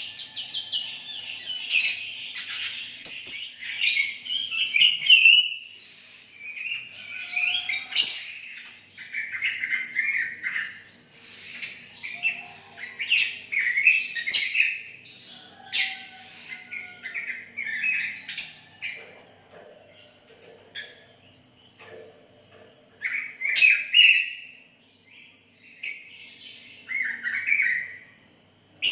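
Sooty-headed bulbul (kutilang) singing vigorously in quick, repeated chirped and whistled phrases, with a quieter lull about two-thirds of the way through.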